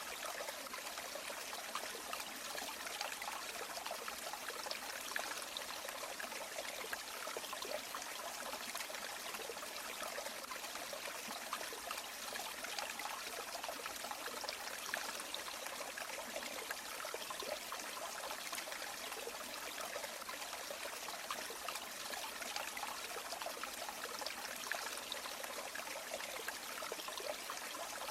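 River water flowing and splashing in a steady, even rush, with fine trickling detail.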